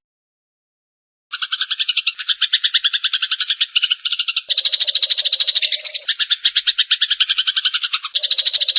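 Sparrows giving fighting calls: a harsh, rapid chattering made of many quick pulses a second. It starts after about a second of total silence, and its tone shifts about halfway through.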